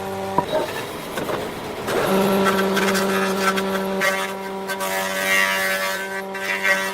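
A motor running with a steady hum. It drops out about half a second in, leaving a rougher noise, and comes back at about two seconds.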